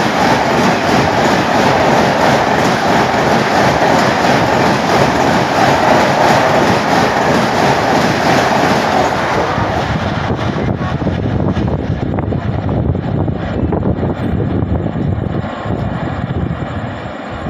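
Express train coaches rushing past a platform at about 130 km/h: a dense, loud rush of wheel and air noise with clattering over the rail joints. About ten seconds in the rush thins to separate wheel clacks that fade as the train goes by.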